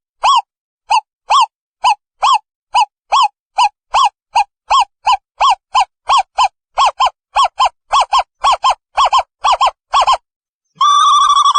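Asian barred owlet calling: a long run of short, hooting whistled notes, about two to three a second and slowly quickening, that breaks into a continuous bubbling trill near the end.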